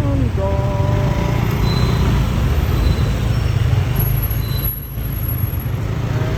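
Motorbike taxi ride through city traffic, heard from the pillion seat: a steady engine and road noise with a heavy low rumble, and a few brief tones near the start.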